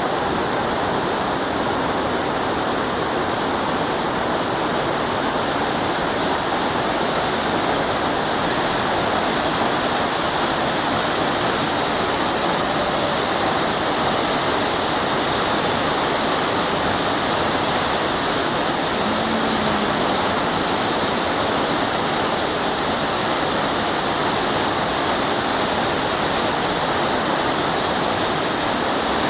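Waterfall after rain: a steady, even rush of falling water that does not change.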